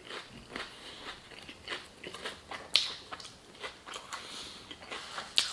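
A person chewing and crunching food close to the microphone: a run of irregular crunches and wet mouth clicks, with a sharper crunch about three seconds in.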